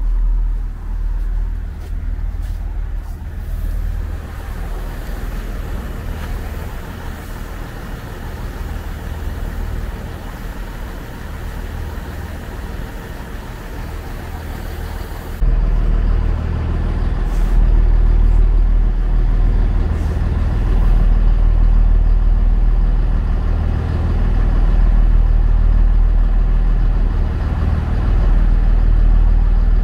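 Great Western Railway passenger train running past on the line below, a continuous low rumble that gets suddenly louder about halfway through.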